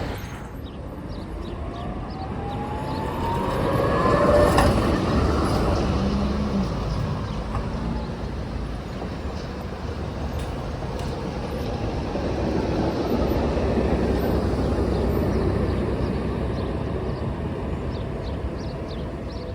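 Electric city tram running on street track. Its motor whine rises in pitch over the first few seconds, peaking about four seconds in, over a steady rumble of wheels on rails. A second swell of rolling noise comes around the middle.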